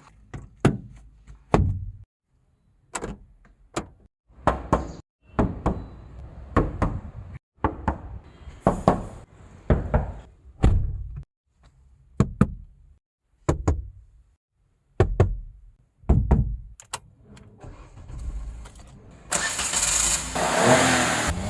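A series of about fifteen sharp thuds, roughly one a second, from a Maruti Suzuki Alto K10's body parts being shut and struck one after another. Near the end the car's 1.0-litre three-cylinder engine starts and runs loudly.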